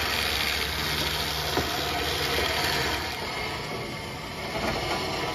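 The Ford Fairmont Futura's swapped-in Mustang 5.0 HO 302 V8, fitted with an aftermarket cam, idling steadily after being started on a jump box.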